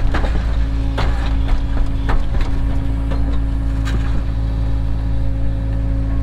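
Cat 307 excavator's diesel engine running steadily, with scattered short knocks and clunks from the work, about one every second or two.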